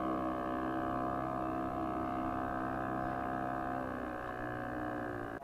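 Motorboat engine running with a steady drone, dropping slightly in pitch near the end, then cutting off suddenly.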